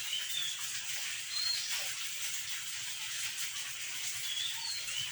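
A steady hiss, like running water, with a few faint, short, high chirps scattered through it.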